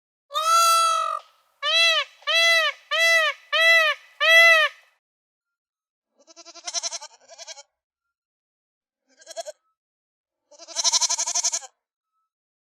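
Sheep bleating: one long call, then five short calls that each rise and fall in pitch, followed after a pause by quavering bleats about six seconds in and again near the end.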